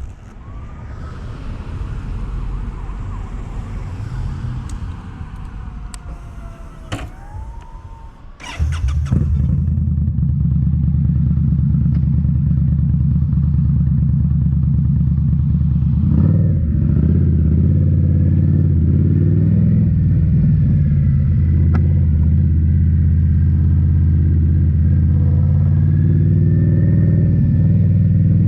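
Indian Scout Bobber V-twin with slip-on mufflers starting abruptly about a third of the way in, then idling loud and steady. Before it catches there is only quieter background with a couple of sharp clicks.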